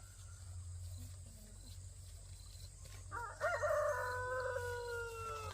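Rooster crowing once, about three seconds in: one long call that sinks in pitch as it ends.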